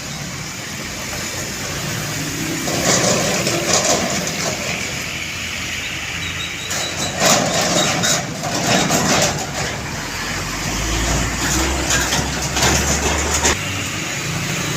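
Heavy truck engines running with road noise, with several louder noisy stretches and a deep rumble about two-thirds of the way through as a truck passes close by.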